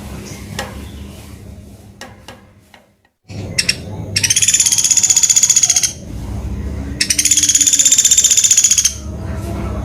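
Pelatuk beras woodpecker giving two long, fast rattling calls, the first a little before the middle and the second near the end, after a short note, over a low steady hum.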